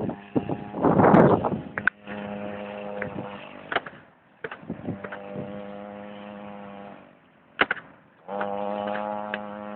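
Mini pit bike's small engine running at a steady, fairly high pitch in three stretches, with short breaks between them and a louder rough burst about a second in.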